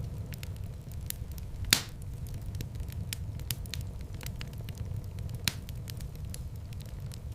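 Wood fire burning in a fireplace: a steady low rumble of flames with frequent crackles, and a loud pop about two seconds in and another near the end.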